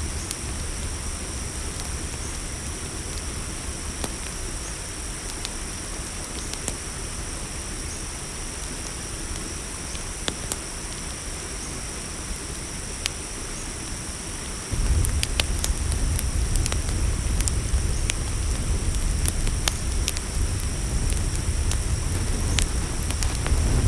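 Campfire crackling with scattered sharp pops over the steady high chirring of crickets. About two-thirds of the way through, a low rumble comes in abruptly and the whole sound gets louder.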